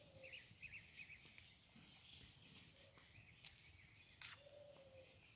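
Faint songbirds chirping and twittering in short repeated notes, with one brief sharper sound about four seconds in.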